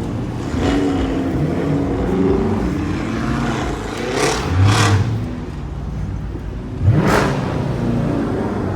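Straight-piped muscle-car exhaust running low, then revved up in surges about four seconds in and again sharply about seven seconds in.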